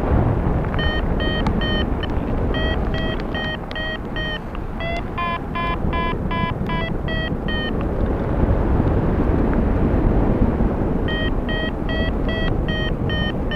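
Paragliding variometer beeping its climb tone in series of short electronic beeps, about three a second, higher and quicker around the middle, pausing for a few seconds and then resuming: the glider is climbing in ridge lift. Steady wind rushing over the microphone underneath.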